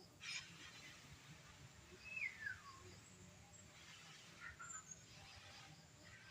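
Faint birdsong: a clear whistled note gliding down in pitch about two seconds in, with a few short chirps later, over low steady background noise.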